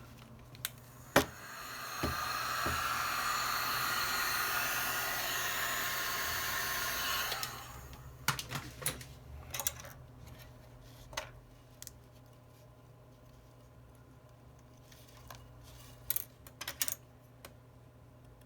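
A heat gun blows steadily for about five seconds, switched on about two seconds in and off near the middle, to soften the glue holding the phone's screen parts. After it stops come scattered small clicks and taps.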